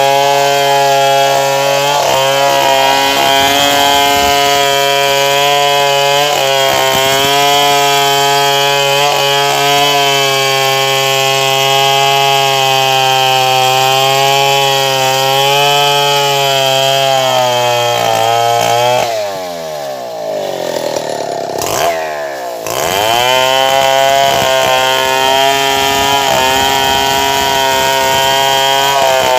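Stihl 070 two-stroke chainsaw running at high revs, cutting through wood. About two-thirds of the way through, the engine drops to idle for a few seconds, then revs back up and runs steadily again.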